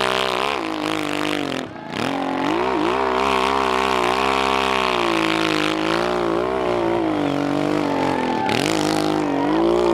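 Motocross bike engine revving, its pitch rising and falling with the throttle, which is cut off briefly about two seconds in and again near the end.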